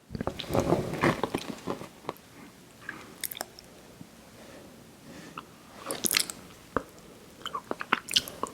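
Close-miked biting and chewing of a fast-food dessert pie with a crisp crust: a dense run of crunches in the first two seconds, quieter mouth clicks in the middle, then more sharp crunches near the end.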